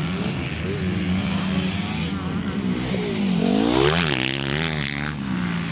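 Motocross motorcycle engine easing off and then revving up hard as it passes close, about three to five seconds in, over the steady drone of other bikes running on the track.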